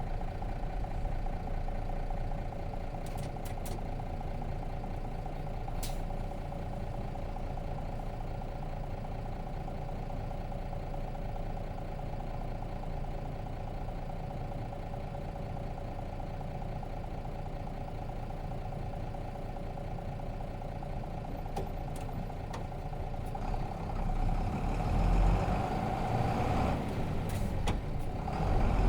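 Interior sound of a Nissan Diesel RM bus with its FE6 inline-six diesel running steadily at low revs, a constant low rumble with a steady hum over it and a few sharp clicks. Near the end the engine gets louder, eases briefly, then rises again.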